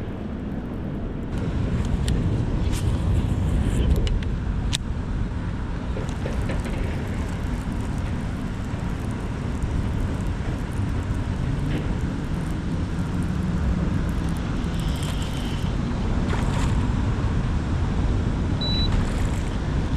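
A steady low rumble, with a few faint clicks and ticks scattered through it.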